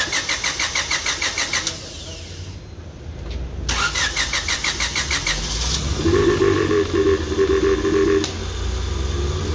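Freshly rebuilt Honda B16 engine being started: the starter cranks it in a quick rhythmic churn for under two seconds without it firing, then cranks again and it catches about six seconds in. It runs loud for about two seconds, then settles to a steady idle.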